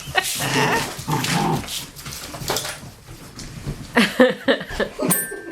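Eight-week-old golden retriever puppies whimpering and whining, with a run of short high cries about four seconds in.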